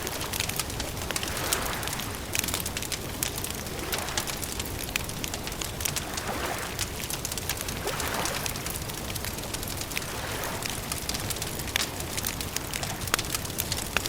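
Campfire crackling, with frequent sharp, irregular pops and snaps of burning wood over a steady hiss.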